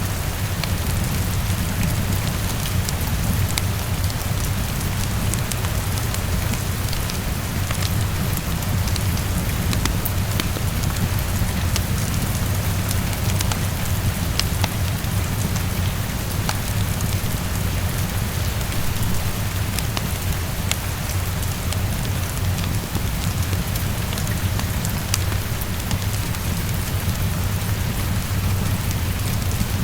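Heavy rain against a window: a steady, even hiss over a deep, continuous low rumble, with scattered faint crackles of a fireplace.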